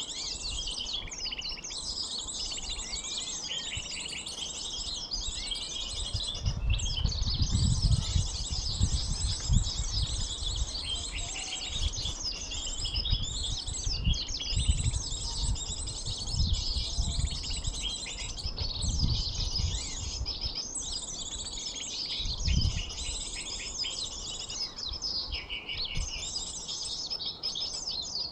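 Dense, unbroken high-pitched chirping and twittering of small birds, the sunbird calls used to lure them in. Irregular low rumbles and thumps sound under the chirping from about six seconds in to about twenty-three seconds in.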